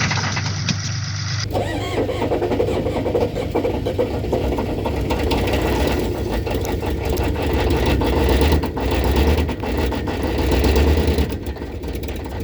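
1986 Ford F-250's 6.9 IDI diesel V8 running rough just after catching, surging louder a few times and then dropping off near the end, as a long-sat, flood-damaged engine struggles to keep running.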